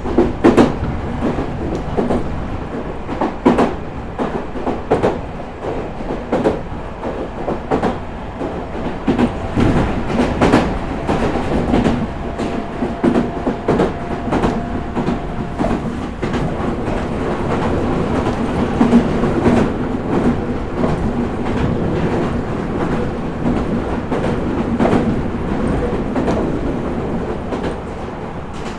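Meitetsu 4000 series electric train running between stations, heard from inside the passenger car. A steady rumble is broken by repeated clacks of the wheels over rail joints, with a faint steady whine about halfway through.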